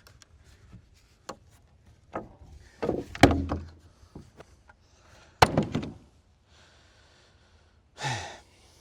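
Wooden knocks and thuds of lumber being handled during a shed-floor build, with two loud thumps about three and five and a half seconds in and lighter clicks between. Near the end, a short grunt that falls in pitch.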